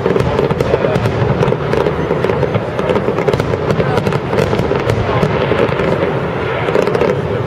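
Aerial fireworks bursting in a dense, overlapping barrage: rapid bangs and crackle with no break.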